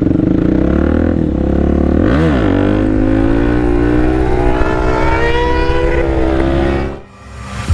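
Motorcycle engine under acceleration: a brief dip and rise in revs about two seconds in, then revs climbing steadily for several seconds before the sound cuts off sharply near the end.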